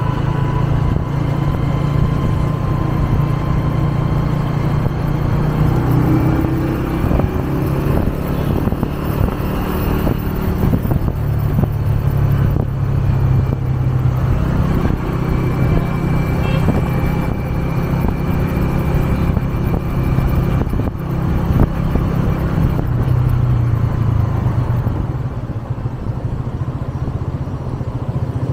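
A 125cc motorcycle engine running while riding, a steady low drone that swells and eases with the throttle, mixed with road and wind noise.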